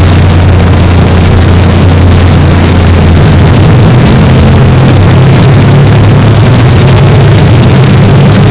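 A loud, steady, low droning hum with a dense hiss over it. The hum's pitch pattern shifts slightly about three seconds in.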